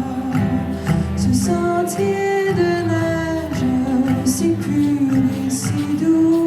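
Music: a singer holding long sung notes over a steady instrumental accompaniment.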